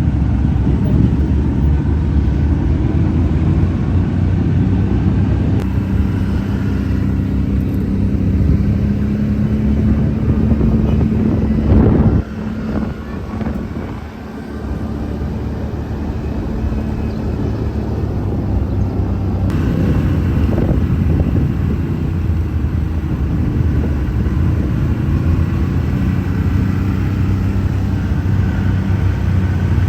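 Off-road ATV or UTV engine running steadily under way. About twelve seconds in it briefly peaks, then drops off for a couple of seconds before building back up.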